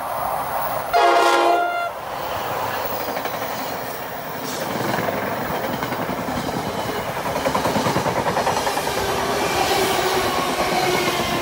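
NJ Transit locomotive-hauled passenger train running through a station without stopping. The locomotive gives one short horn blast about a second in, then the passenger cars rush past with a steady rumble and the clatter of wheels on the rails.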